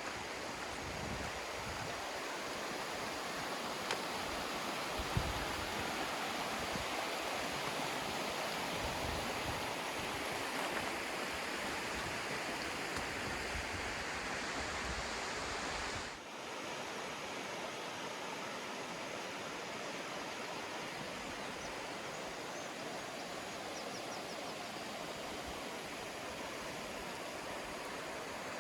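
Rushing river water, a steady hiss. In the first half, low wind buffets the microphone and two brief knocks sound about four and five seconds in; the low rumble cuts off suddenly partway through, leaving the water alone.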